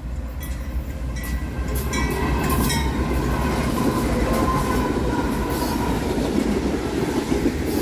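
Freight train rolling past close by: the steady rumble of cars and wheels on the rails builds over the first couple of seconds and then holds.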